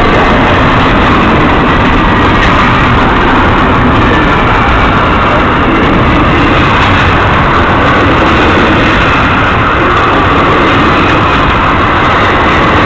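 Canadian Pacific intermodal freight train passing with a loud, steady rumble that holds without a break.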